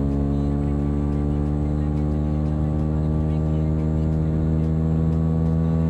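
Engine running steadily through an Akrapovic aftermarket exhaust, a constant low note with no revving.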